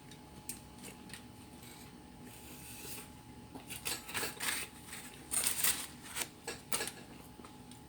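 A run of short clicks and crinkles from handling food and its containers while eating, sparse at first and coming thicker and louder about halfway through.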